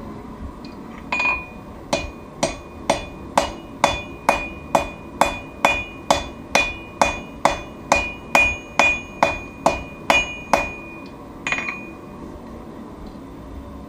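Forging hammer blows on steel on an anvil, each with a metallic ring. A single blow is followed by an even run of about twenty strikes, a little over two a second, and one last blow near the end.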